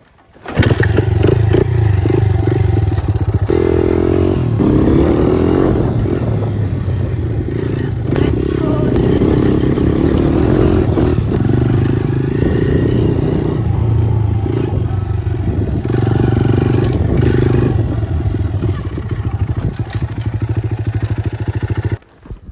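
Honda CRF100's single-cylinder four-stroke engine catching on a kick-start about half a second in and running loudly, its note rising and falling. It stops abruptly near the end.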